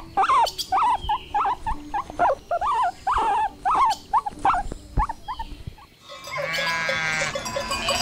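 Guinea pig giving a string of short squeaks that bend in pitch, about two or three a second. About six seconds in, a sheep gives one long bleat of about a second over the low noise of the flock.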